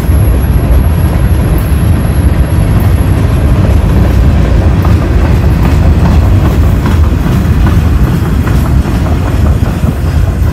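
Freight train passing close by: a line of covered hopper cars rolling past with a loud, steady low rumble of wheels on the rails.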